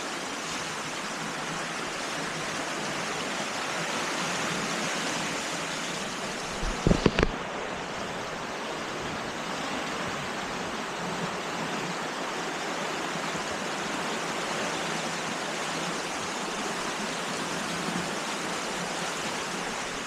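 Flood-swollen river rushing in a steady wash of water noise, with a brief cluster of knocks about seven seconds in.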